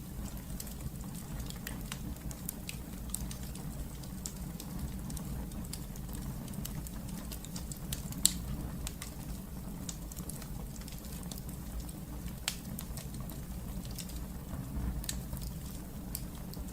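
Wood fire crackling in a fireplace: irregular sharp pops and snaps over a low steady rumble of the burning fire, with a louder pop about 8 seconds in and another about 12 seconds in.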